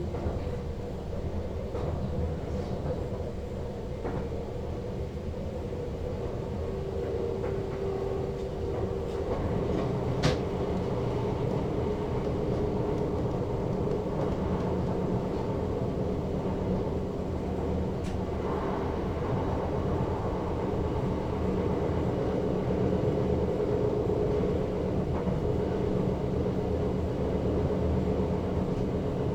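Sprinter Lighttrain (SLT) electric multiple unit running on the line, heard from inside the driver's cab: a steady rumble with a constant hum. A single sharp click comes about a third of the way through.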